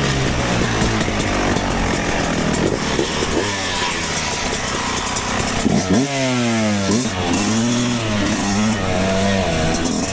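Two-stroke dirt bike engine running and being revved, its pitch rising and falling; about six seconds in it drops sharply and climbs back up.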